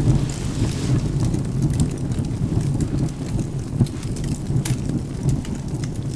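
Wood fire crackling with scattered sharp pops over steady rain and a continuous low rumble.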